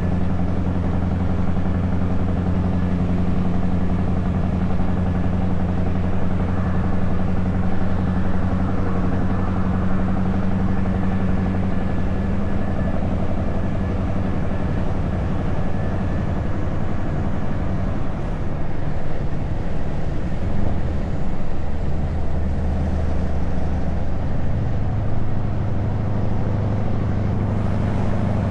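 Scania S truck's diesel engine running through open exhaust pipes, with a steady low drone at cruising revs. About twenty seconds in the note drops lower, and it climbs back up a few seconds before the end.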